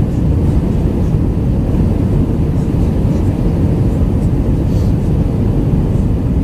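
Steady low roar of an Airbus A319-112's engines and airflow, heard inside the passenger cabin, with a faint steady hum in it.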